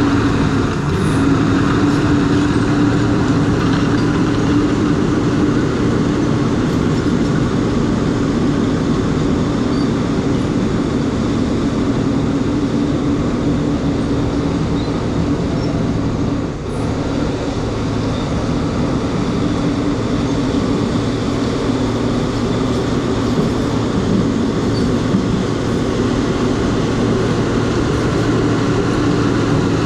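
New Holland crawler bulldozer working: its diesel engine runs steadily along with the noise of its tracks, with a brief dip in level a little past halfway.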